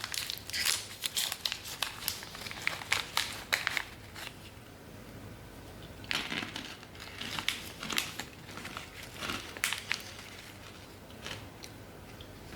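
Crinkling of snack packaging being handled and opened: bursts of rustling and small crackles, a short lull about four seconds in, then another spell of crinkling that thins to a few clicks near the end.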